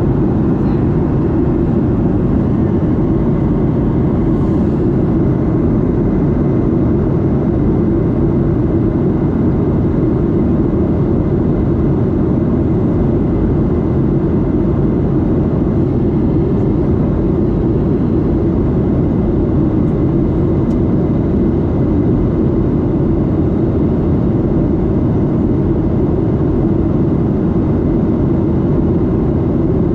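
Boeing 737-8's CFM LEAP-1B jet engine and airflow running with a loud, steady roar, heard inside the cabin close to the engine. The sound holds even, with no rise or fall.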